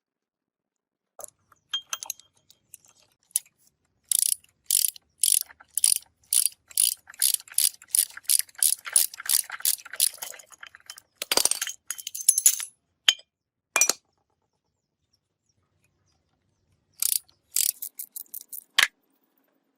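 Ratchet wrench clicking as its handle is swung back and forth, loosening fasteners on an old gearbox: an even run of sharp clicks about two a second, then a few louder metal clatters, and another short run of clicks near the end.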